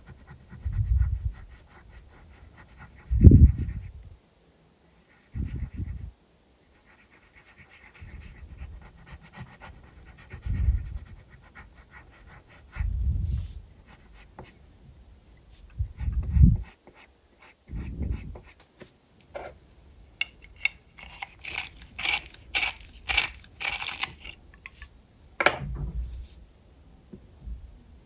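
Graphite pencil rubbing and scratching on sketchbook paper, with a quick run of short, sharp strokes about twenty seconds in. Dull low bumps every few seconds come from the hand and sketchbook shifting against the surface.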